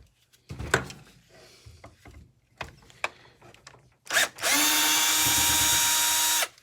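Scattered clicks and knocks, then a power drill runs at a steady speed for about two seconds and stops abruptly, as if driving out a screw during disassembly.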